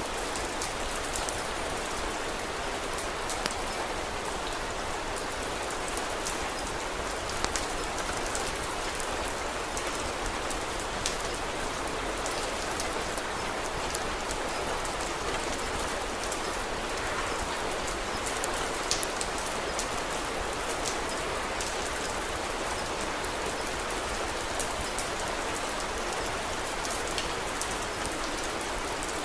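Steady rain falling as an even hiss, with scattered sharp ticks and crackles.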